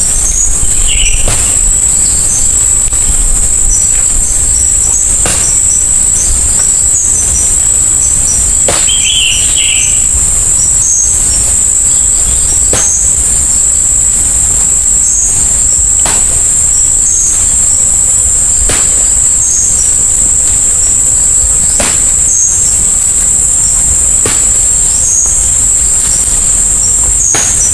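Insect chorus holding one high, steady shrill, with a low rumble underneath. A bird chirps briefly twice, and faint clicks come every few seconds.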